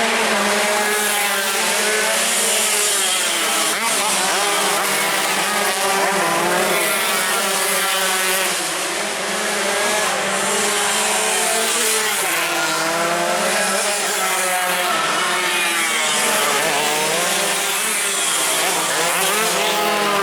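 Several tuned two-stroke sport motorcycles racing at full throttle, their engines' pitch repeatedly rising and dropping as they rev up and shift through the gears.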